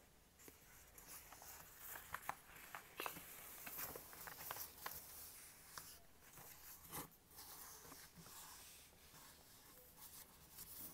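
Faint, irregular scratches and light taps of a pen or stylus writing, scattered throughout with short pauses.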